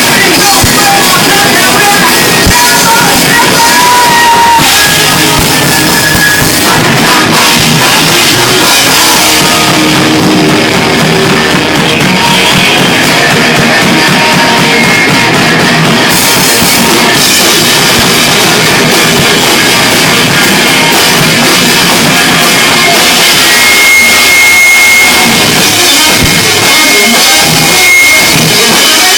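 Rock band playing live at high volume, with drums and guitars.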